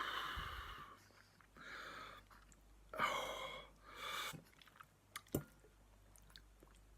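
A man chewing spicy instant noodles, with several short, hissing mouth breaths as he reacts to the chilli burn. There is a sharp click about five seconds in.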